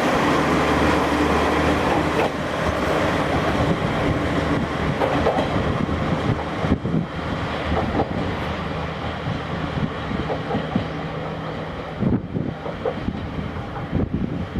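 Diesel railcar moving on the station tracks: a steady engine hum with irregular clacks of wheels over rail joints and points, growing a little fainter toward the end.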